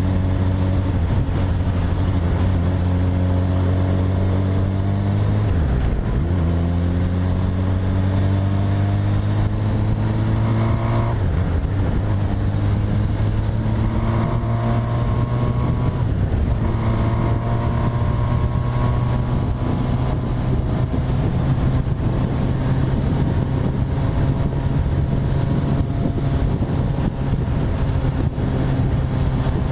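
Motorcycle engine under way, rising in pitch through the gears, with three brief dips for gear changes in the first half. It then holds a steady cruise, creeping slowly higher.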